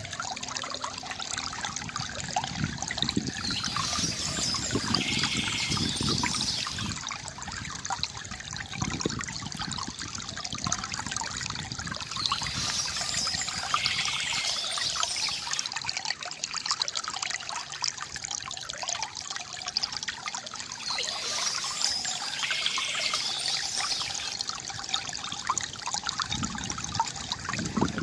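Water trickling and splashing from a bamboo fountain, with a short burst of bird chirping three times, about every nine seconds.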